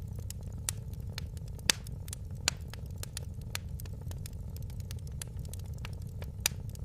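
Fire crackling in a fireplace: frequent sharp pops and snaps over a steady low rumble of the flames, with louder pops about a second and a half in and near the end.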